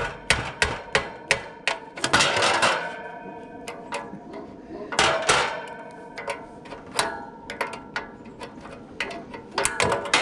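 Irregular metal-on-metal clanks and taps with a short metallic ring, from steel hand tools knocking against metal parts during a condenser fan motor job. There are dense clusters of rattling about two seconds in and again around five seconds.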